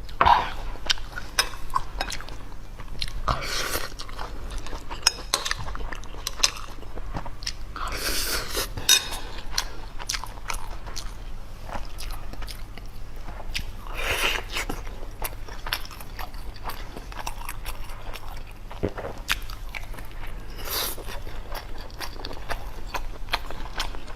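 Close-miked eating: biting and chewing food with many wet mouth clicks, and a few louder noisy bursts spaced several seconds apart.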